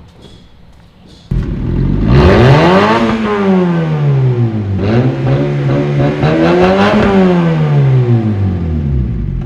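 Honda Civic petrol engine breathing through a single small motorcycle exhaust, starting about a second in and revved twice, the pitch climbing and falling back each time. It is a sound test of the newly fitted bike silencer.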